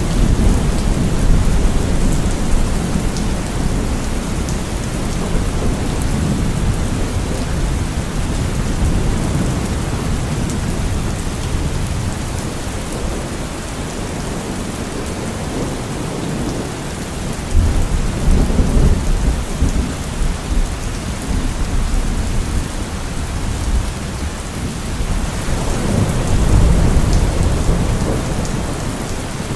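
Steady heavy rain with thunder rumbling low. The rumbles swell at the start, again a little past halfway, and once more near the end.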